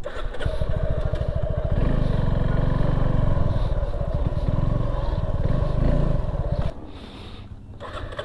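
Motorcycle engine pulling away under the rider. Its beat gets louder about two seconds in and runs steadily, then drops back as the throttle closes near the end before picking up again.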